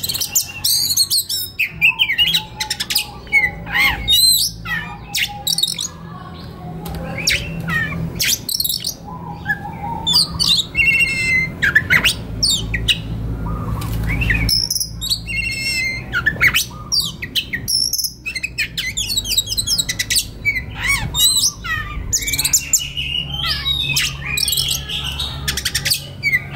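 Oriental magpie-robin (kacer) singing a long, varied song of whistles, chirps and quick gliding notes, broken by fast scratchy chattering runs.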